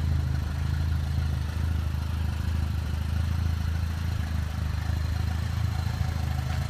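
Turbocharged 2.0-litre four-cylinder of a 2010 Chevrolet HHR SS, fitted with a larger turbo, idling steadily as a low, even hum.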